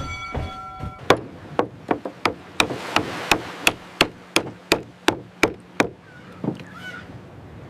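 A run of sharp knocks struck in a steady rhythm, about three a second and some fourteen in all, stopping about six seconds in.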